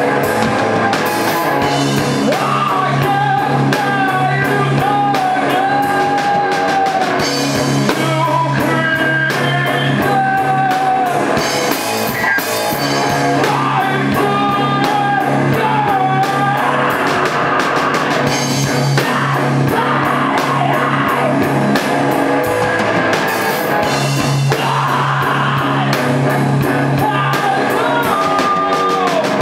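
Rock band playing live: a singer over electric guitars and a drum kit, at a steady loud level.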